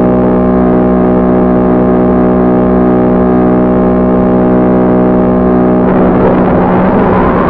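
Model aircraft's motor running at a steady pitch, heard from the onboard FPV camera. About six seconds in, the sound turns rough and noisy, with a faint rising whine near the end.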